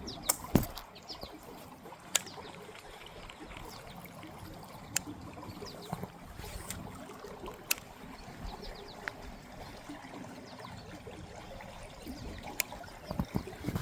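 Creek water trickling steadily, broken by a few sharp clicks, with faint short chirps high above.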